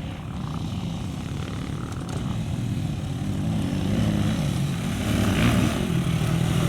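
Engine of an off-road race motorcycle or quad droning steadily and growing louder as it approaches.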